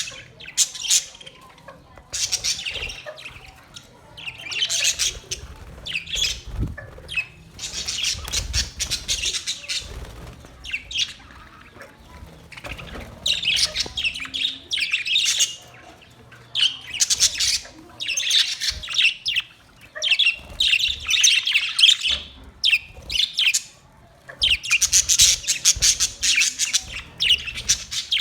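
Parrots giving harsh, raspy squawks over and over, in clusters of calls about a second or two long with short gaps between them.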